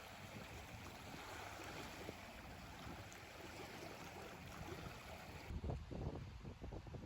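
Faint, steady outdoor background noise with no distinct events, which changes abruptly about five and a half seconds in and is followed by a few low rumbles.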